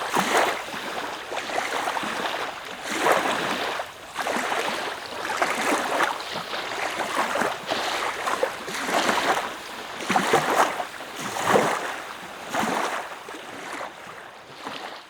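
Water sloshing and splashing in repeated surges, about one every second or so.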